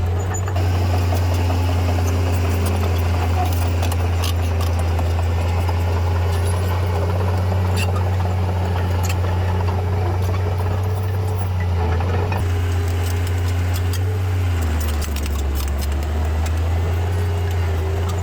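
Bulldozer diesel engine running steadily with a deep drone and scattered clicks and knocks. About three-quarters of the way through, its pitch sags for about a second, then comes back up.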